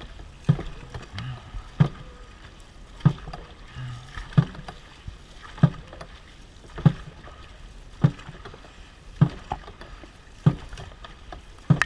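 Dragon boat drum struck in a steady beat, about ten even strokes roughly one every 1.2 seconds, setting the stroke rate for the paddlers, with paddles working the water underneath.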